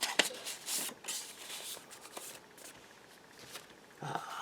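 Paper rustling and light taps as small paper envelopes and journaling cards are handled, busiest in the first second and quieter after.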